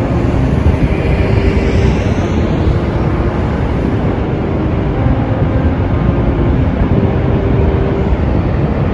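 Steady low roar of the Horseshoe Falls at Niagara, a constant rumbling rush of falling water.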